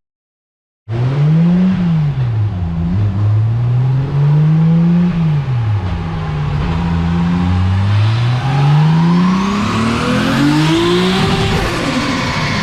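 Toyota 2JZ-GTE turbocharged straight-six on a chassis dyno. After a brief silence it is revved up and down several times, then makes a long climb in revs over about four seconds before dropping off, with a high whine rising with it near the top.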